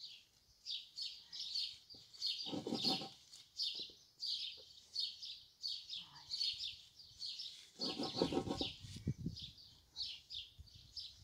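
Small birds chirping and twittering continuously in quick, high notes, with two brief lower-pitched sounds about two and a half and eight seconds in.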